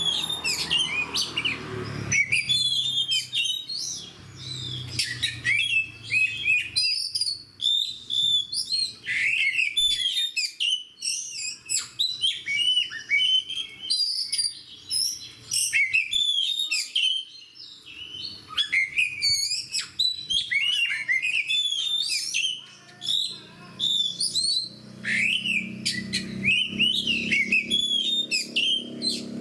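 Oriental magpie-robin singing a long, varied song of quick whistles and chirps. A low rumble sits under the song for the first couple of seconds and again in the last few seconds.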